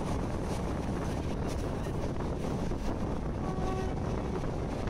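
Passenger train running along the line, heard from an open coach door: steady rumble of wheels on the rails mixed with wind buffeting the microphone. A faint, brief tone sounds a little past three and a half seconds in.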